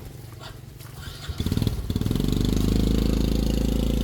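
A small engine starts about a second and a half in, then runs steadily and evenly.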